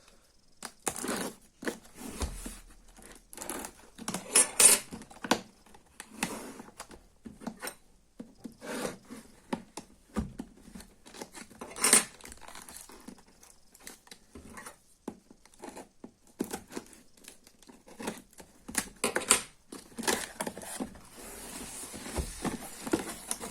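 Cardboard packaging being cut and torn open by hand, with tearing, crinkling and rustling that come in irregular sharp bursts. The loudest snaps come about four and a half and twelve seconds in.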